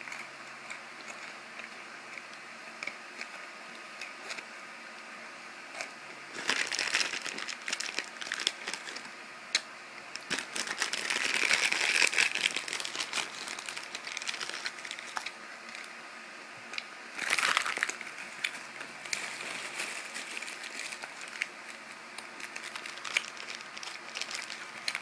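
Candy wrappers crinkling as hands rummage through a bag of Halloween candy, with light scattered clicks and a few louder bursts of crinkling, the loudest a bit before the middle.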